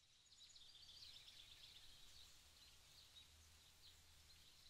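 Faint woodland ambience: small birds chirping and twittering high up, over a low steady hum.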